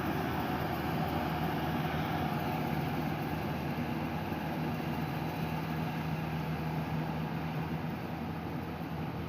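An engine running steadily at a constant speed, with an even low hum that eases slightly toward the end.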